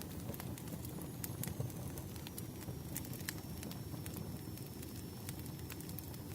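Campfire crackling: irregular sharp pops and snaps over a low, steady rumble of burning wood.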